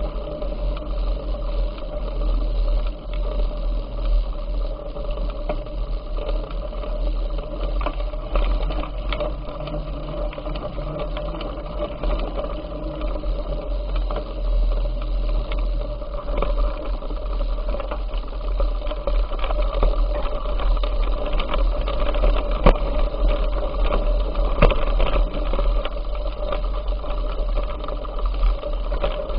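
A bicycle being ridden, with a constant low wind rumble on the microphone and a steady run of small rattles and clicks from the bike.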